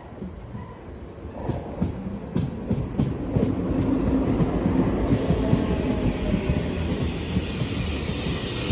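A train running along the track, its wheels clicking over rail joints, growing louder over the first second or two. A thin high wheel squeal comes in partway through.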